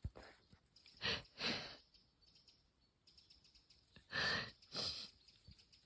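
A woman's deep, audible breaths, sigh-like: two pairs of breaths in and out, about a second in and again about four seconds in.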